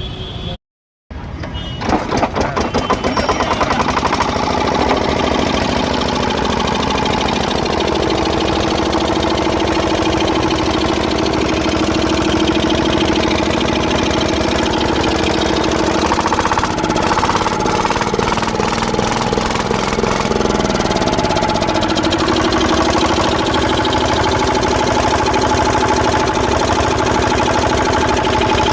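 Kirloskar diesel oil engine running steadily with a fast, even firing beat. It follows a short dropout about a second in.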